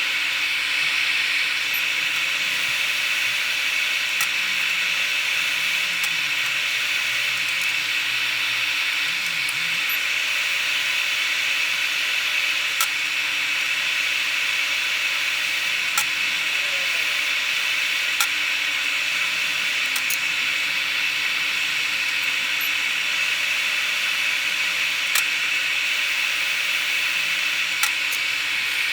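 Fume extractor fan running with a steady airflow hiss over the microsoldering bench, with a few faint ticks of tools now and then.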